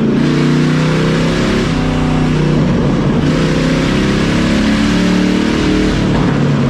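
V8 car engine revved up and down several times while it swallows marshmallows fed into its intake.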